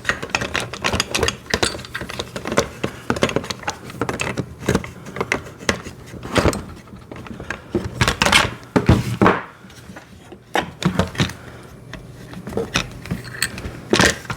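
Irregular clicks, taps and knocks of a metal axle and plastic parts being handled and worked through a kids' ride-on motorcycle's front wheel and fork, a tight fit.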